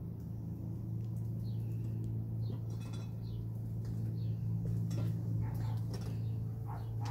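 Small birds chirping, several short high falling chirps, over a steady low hum.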